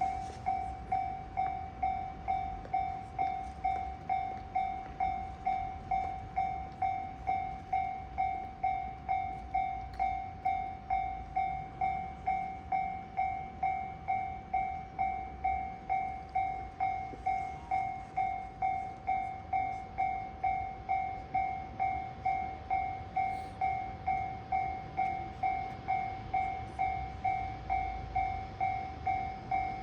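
Railway level-crossing warning bell ringing steadily, about two evenly spaced dings a second, signalling an approaching train.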